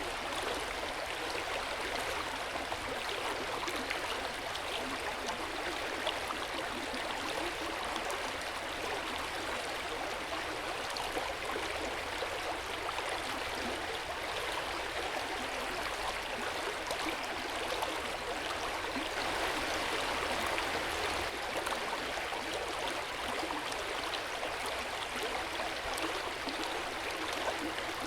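Hot-spring water flowing steadily into an open-air bath: an even, unbroken rush of water with fine splashing.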